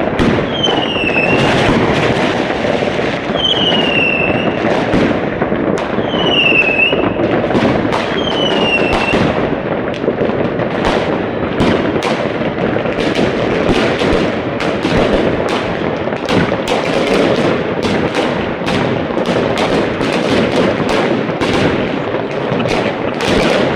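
Many fireworks going off together: a dense, unbroken run of rapid bangs, with four short falling whistles in the first ten seconds.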